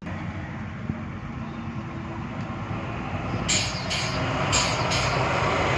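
Diesel truck engine running steadily and growing a little louder. In the second half come four short air hisses.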